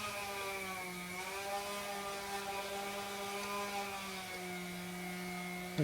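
Electric power tool, such as a drill, running steadily with a whine whose pitch dips slightly now and then as it loads, opening up oil-line fittings for more flow. A brief knock near the end.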